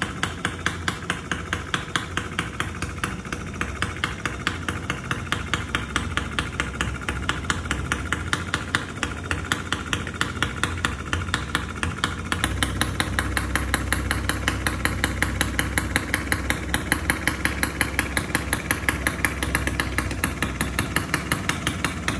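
Miniature Lister D-type single-cylinder engine model idling, firing in an even rhythm of about four strokes a second. About halfway through its sound grows fuller and louder in the low end.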